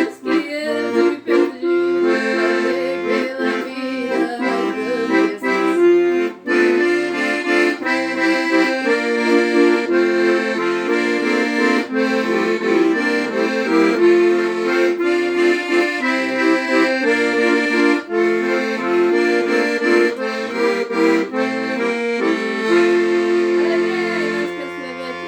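A single instrument played live: a quick melody of held notes over chords and a bass line, easing slightly in the last couple of seconds.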